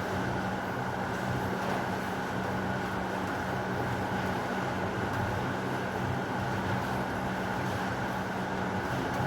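Steady heavy rain, an even wash of noise with a constant low hum beneath it and no thunder.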